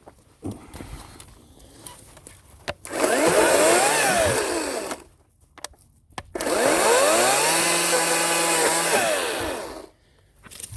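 Ryobi 40-volt 18-inch battery chainsaw run in two bursts. In the first, the motor whine climbs and falls away after about two seconds. In the second, it spins up, holds a steady pitch for a couple of seconds, then winds down. Light clicks and handling knocks come before the first burst.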